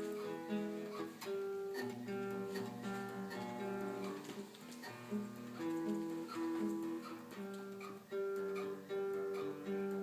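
Acoustic guitar playing an instrumental introduction: a steady run of separate notes over a bass line that steps between pitches.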